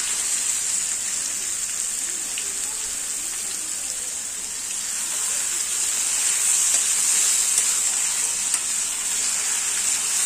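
Marinated raw chicken pieces sizzling in hot oil in a thick black kadai, with a steady high hiss that grows a little louder about six seconds in. A steel spatula stirs and scrapes them round the pan. The chicken has just gone into the oil with the fried onions.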